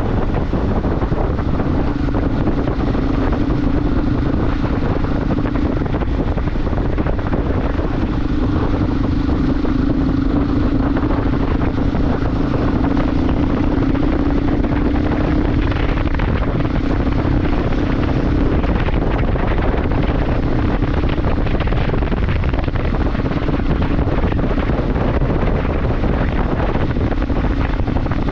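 Motorcycle riding at a steady cruise: heavy wind noise on the microphone over a steady engine hum.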